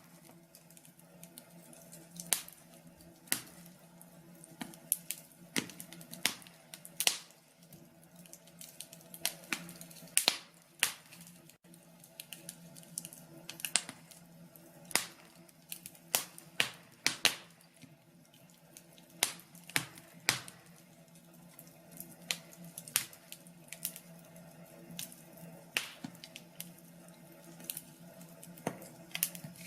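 Wood fire crackling in a fireplace: irregular sharp pops and snaps of burning wood, some louder than others, over a steady low hum.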